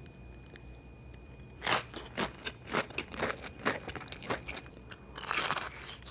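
Close-up mouth sounds of chewing crunchy fried food. After a quiet first second and a half, crisp crunches come about three a second, with a louder noisy crunch near the end.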